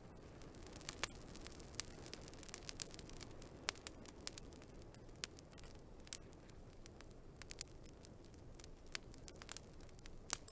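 Wood fire crackling: irregular sharp pops and snaps, several a second at times, over a soft, steady low rush of burning.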